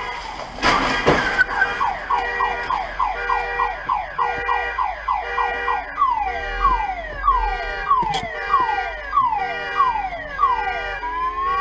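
Electronic car alarm sounding, cycling through repeated falling sweeps that start fast and then slow down, with a rising tone near the end. A short noisy burst comes about a second in.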